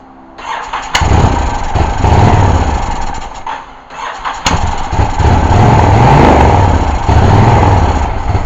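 Honda VTX 1300 V-twin engine firing and running briefly on fuel sprayed into the carburettor throat after sitting for years. It catches with a sharp crack about a second in, sags and nearly dies around three and a half seconds in, then catches again with another crack and runs unevenly for a few more seconds before fading near the end.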